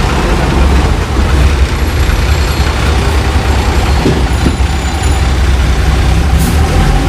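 Heavy truck running past on a road: loud, steady diesel engine rumble with road and traffic noise, and a short hiss near the end.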